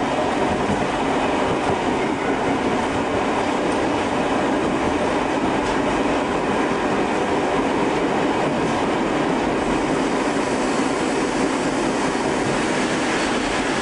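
Tobu 5700 series electric train running, heard from the driver's cab: a steady rumble of wheels on rail.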